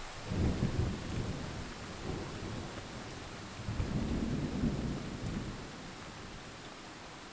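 Thunder rumbling over steady rain: one deep roll of thunder just after the start, a second, longer rumble around four seconds in, then dying away under the hiss of the rain.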